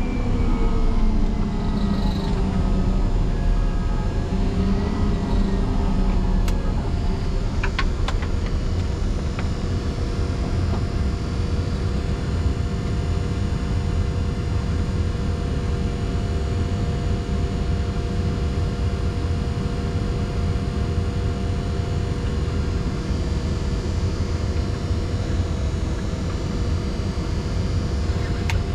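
Caterpillar 140M motor grader's diesel engine running steadily while plowing snow. Its pitch sags over the first few seconds, with a few sharp clicks about eight seconds in.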